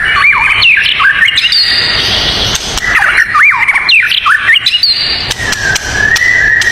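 Songbirds singing: quick swooping whistled notes in repeated phrases, over a steady high-pitched background tone.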